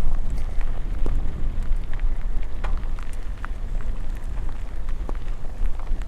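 Rain falling, with many scattered drops ticking close by over a steady low rumble.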